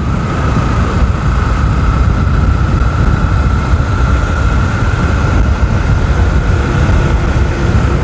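Motorcycle riding at speed, about 60: a steady rush of wind and road noise with the engine under it and a thin, steady whine on top.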